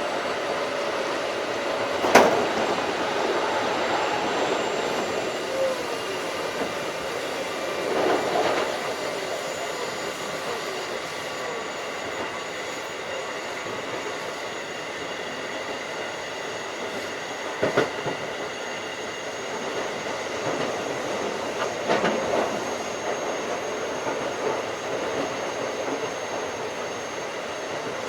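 Keikyu 1500 series field-chopper electric train running at speed, heard from inside the car: a steady rush of wheels on rail with faint whining tones. Sharp clacks over rail joints or points come about two seconds in and as a quick double near the middle, with brief louder swells of wheel and track noise.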